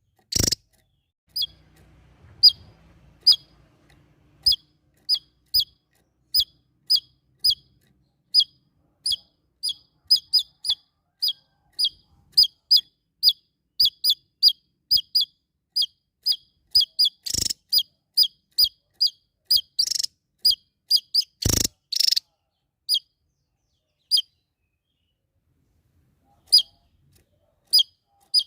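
A small songbird repeating a short, high, downward-sweeping chirp, about two a second, in a long steady run. Two louder sharp notes break in a little past halfway, then the chirps come only now and then near the end.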